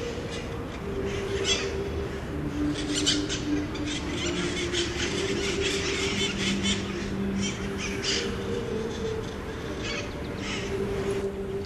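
A flock of red-masked parakeets (cherry-headed conures) screeching, with many harsh calls close together and overlapping, over a low steady hum.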